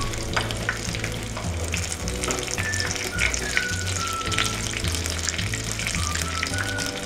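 Breaded rui fish cutlets sizzling as they deep-fry in hot oil, with a few sharp clicks of metal tongs against the pan as the pieces are turned over. Background music with a bass line and a slow melody plays under the frying.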